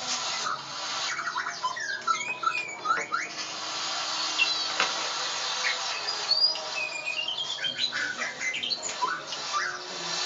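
A murai (Copsychus) songbird singing a varied run of whistled notes and chirps, many sliding up or down in pitch, over a steady background hiss.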